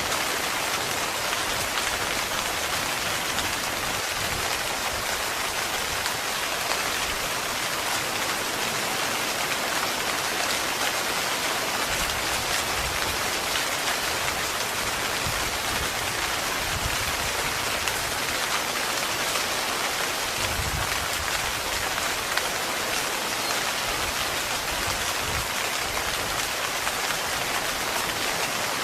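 Heavy rain falling steadily on a tent, a dense, even patter with no let-up.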